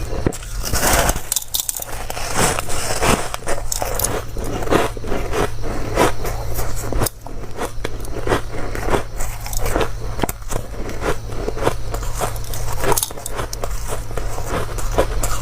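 A person biting and chewing dry, crunchy ice close to the microphone: dense, irregular crunches, with a brief lull about seven seconds in.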